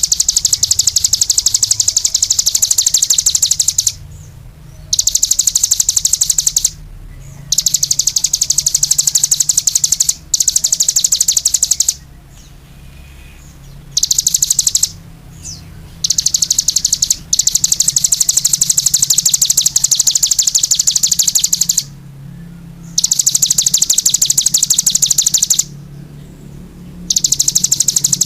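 A songbird singing very fast, high-pitched trills of rapidly repeated notes, in phrases of one to five seconds with short pauses between them.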